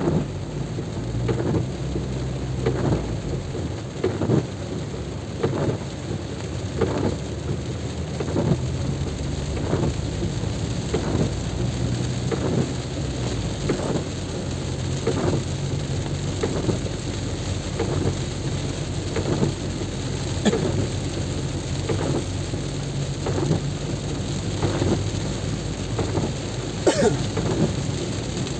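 Heavy rain and road noise from a vehicle driving through a downpour, with a steady low engine drone underneath. A regular swish repeats about three times every four seconds.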